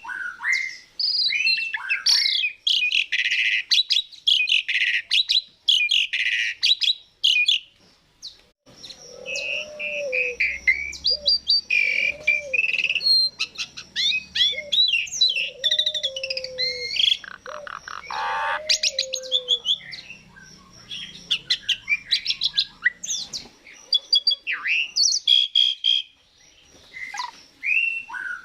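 Asian pied starling singing energetically: a rapid mix of varied whistles, harsh chatter and clicking notes, with a short break about eight seconds in and a run of repeated low falling notes in the middle.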